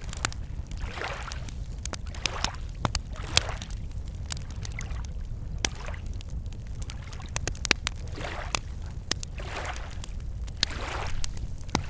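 Wood campfire crackling with sharp, irregular pops, over small waves lapping against a lakeshore in gentle swells about every second.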